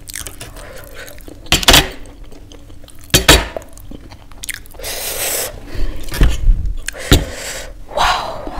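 Close-up mouth sounds of chewing and lip smacking, with a few sharp clicks. One of the knocks is small ceramic bowls being set down on a steel plate.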